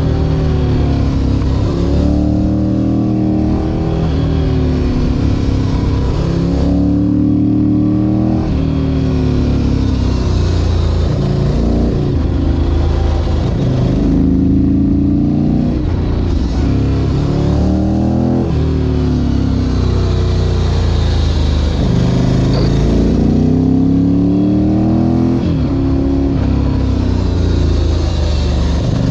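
Ducati Monster 1100 EVO's air-cooled L-twin engine running hard on the road, its pitch climbing under acceleration and dropping back over and over as the bike drives through a series of corners.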